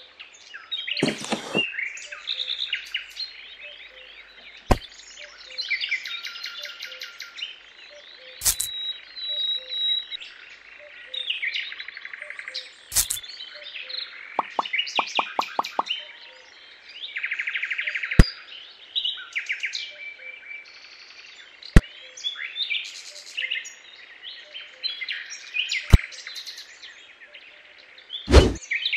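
Small birds chirping and trilling continuously, with a sharp click about every few seconds, eight or so in all.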